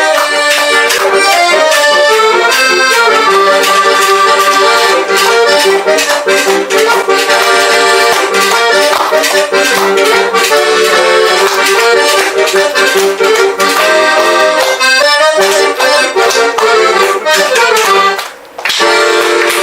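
Accordion playing a lively tune with quick runs of notes and sustained chords, breaking off briefly near the end before starting again.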